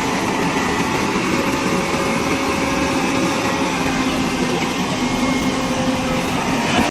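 Steady machinery noise with a faint hum running through it, cutting off suddenly at the end.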